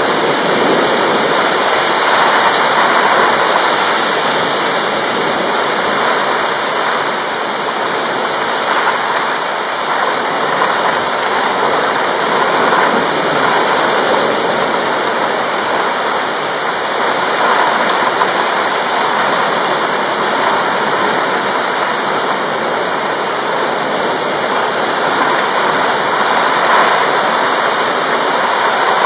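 Heavy rain pouring steadily, an even dense hiss with no thunder.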